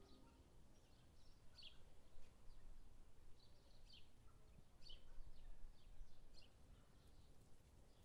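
Faint outdoor ambience with scattered short, high bird chirps, about a dozen, over a low background rumble.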